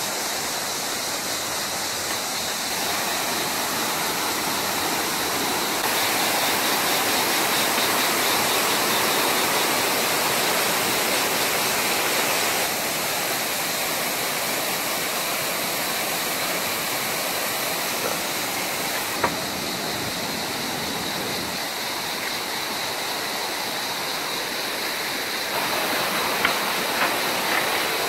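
Steady rush of a mountain stream spilling over small waterfalls into pools. Its level and tone shift slightly several times, with one sharp click about 19 seconds in.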